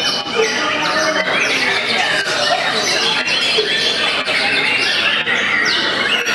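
Many caged white-rumped shamas (murai batu) singing at once: a dense, continuous chorus of overlapping whistles and chirps.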